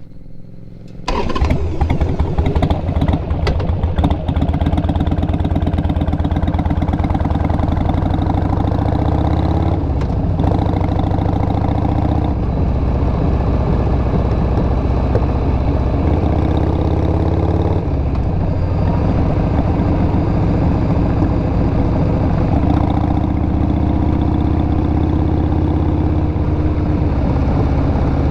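2002 Harley-Davidson XL883R Sportster's 883 cc air-cooled V-twin, breathing through Cobra Speedster Short mufflers, firing up suddenly about a second in. It then runs on steadily, its note changing briefly a few times.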